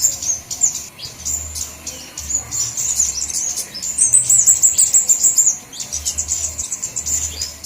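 A chorus of flowerpeckers calling: dense, very high, thin chips and short twitters from several birds at once, with no break. A faint low hum comes and goes underneath.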